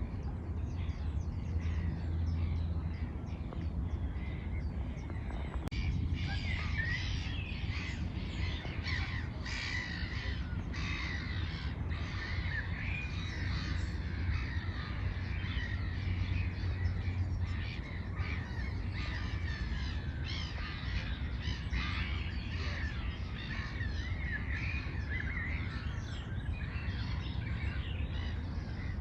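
Birds calling and chirping outdoors, the chorus growing busy about six seconds in, over a steady low rumble.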